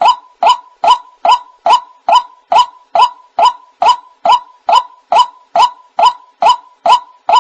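White-breasted waterhen call, a short harsh note repeated at an even pace of about two and a half a second, played as a hunting lure.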